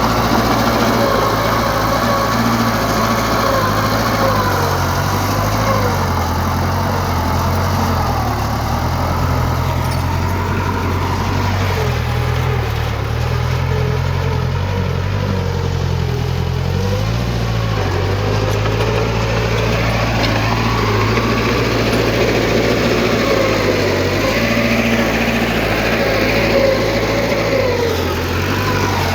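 Diesel engine of heavy earthmoving machinery running under working load, its pitch rising and falling as the load changes, with wavering higher whining tones over it.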